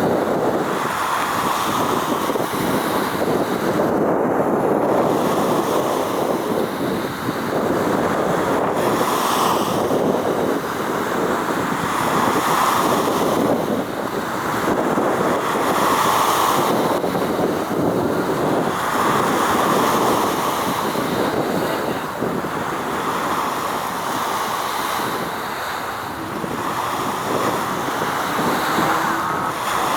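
Wind buffeting the microphone over the wash of sea water, swelling and easing every few seconds.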